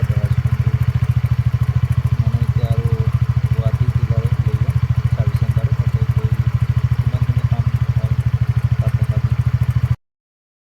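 TVS Ntorq scooter's single-cylinder engine idling with a fast, even beat; the owner says it makes a 'kit kit' ticking noise whose cause he cannot find. The sound cuts off abruptly near the end.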